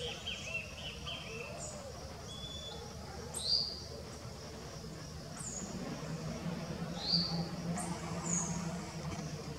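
Songbirds giving short, high chirps every second or two, some sliding down in pitch and one a brief steady whistle.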